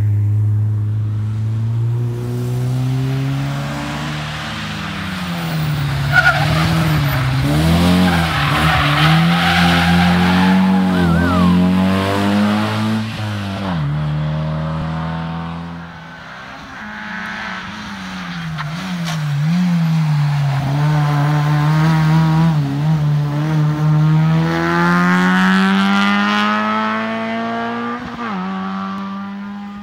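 Rally car engine at full competition pace on a special stage, revving hard with the pitch climbing and dropping again and again through gear changes and braking. There is a sharp crack about six seconds in. The sound fades about halfway through, then builds again with another long climb in revs.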